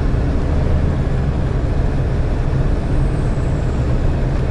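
Steady engine drone and road noise inside the cab of a GAZelle Next light truck, the engine under load as it climbs a snowy hill.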